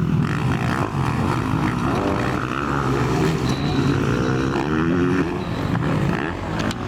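Motocross motorcycle engines racing, the pitch rising and falling as the riders rev and shift.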